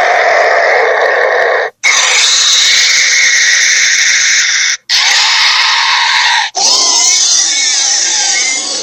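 Monster sound effects: four long, harsh, raspy creature calls, each ending abruptly with a hard cut.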